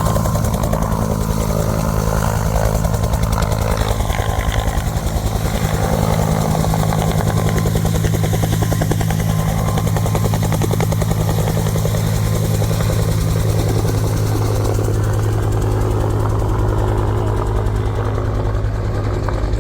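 A helicopter running close by, its engine and rotor making a loud, steady drone with a fast, even beat.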